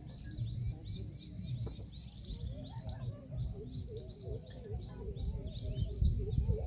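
Many small birds chirping and twittering in quick, overlapping high notes, over a low rumble.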